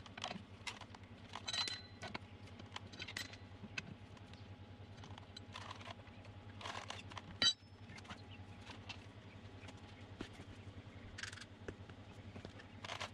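Faint, scattered metallic clinks and jingles of tools and loose parts being handled during work on a Jeep's rear wheel, with one sharper knock about halfway through.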